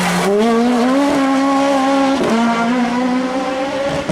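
Suzuki Swift S1600 rally car's 1.6-litre four-cylinder engine running hard at high revs. Its pitch climbs over the first second, then holds high, with short dips about two seconds in and near the end.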